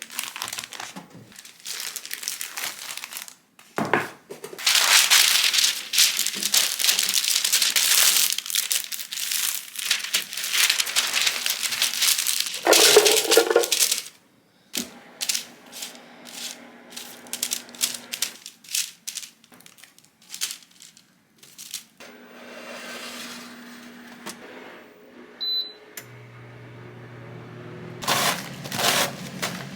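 Crinkling and rustling, dense for several seconds, then scattered clicks and taps, with a steady low hum coming in near the end.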